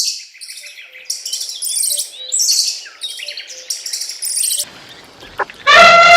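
Small birds chirping in quick, high clusters, then a loud, steady horn-like blast begins near the end.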